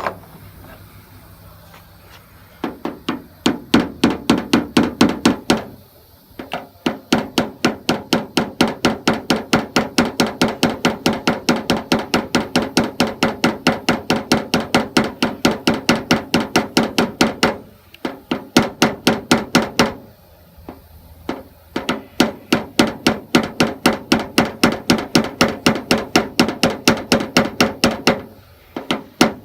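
Paintless dent repair hammer striking tap-down tools against a pickup's bedside panel in quick, even taps, about five a second, broken by a few short pauses. This is tapping down the high spot left after a glue pull.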